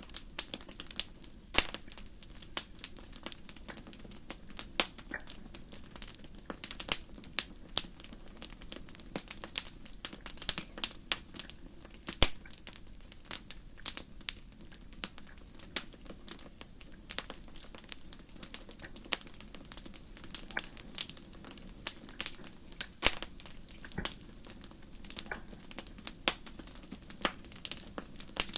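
Fire crackling: irregular sharp pops and snaps, several a second and uneven in loudness, with the biggest pop about twelve seconds in, over a low steady hum.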